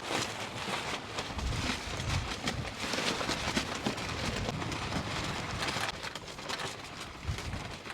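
Gusty wind buffeting the microphone and shaking the tent fabric, with small clicks and knocks as the tent's awning poles are handled and set up; the wind comes in low rumbling gusts, strongest a second or two in.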